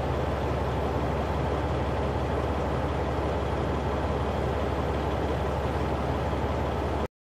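Semi truck's diesel engine running steadily, heard with road and wind noise, which cuts off suddenly near the end.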